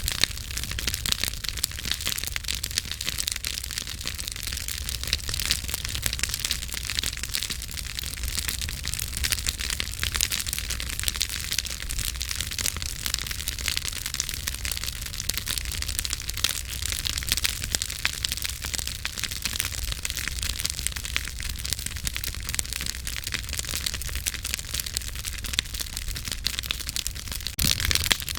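Wood campfire burning, with dense irregular crackles and pops over a steady hiss.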